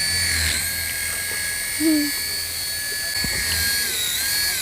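Toy RC helicopter's small electric motor whining steadily as the rotors spin, its pitch dipping briefly a little before the end.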